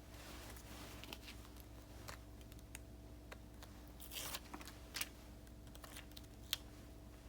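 Paper stickers being handled and peeled at a desk: faint rustling and small crisp taps and clicks, with a longer rustle of peeling or tearing about four seconds in and a sharp tap about six and a half seconds in.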